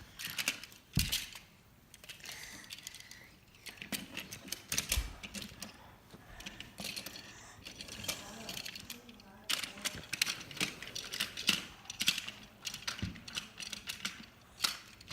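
Irregular clicking and clattering of a toy train and its cars being handled and set back on wooden railway track.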